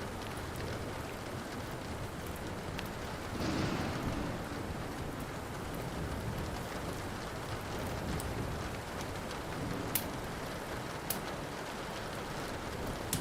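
Steady rain with low rumbling thunder, mixed with the sharp pops of a crackling wood fire, the loudest pop about ten seconds in. The rain and rumble swell briefly about three and a half seconds in.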